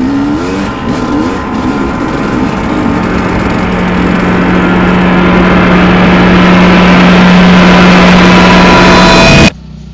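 Dirt bike engine revving with a wavering pitch, then held at one steady speed and growing louder, cutting off suddenly near the end.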